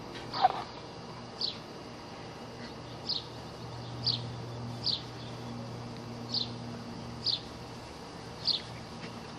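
A bird chirping over and over: short, high, downward-sliding chirps about once a second, with one louder, lower chirp about half a second in.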